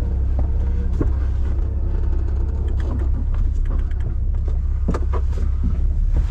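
Vehicle engine running with a steady low rumble, with knocks and rattles scattered through, strongest about a second in and again near five seconds.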